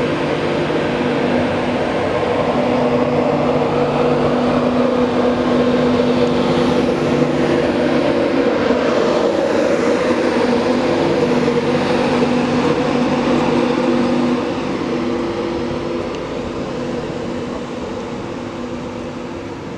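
A train running at a station: a steady mechanical hum with several held tones over a rushing noise. It drops in level about fourteen seconds in and keeps fading slowly.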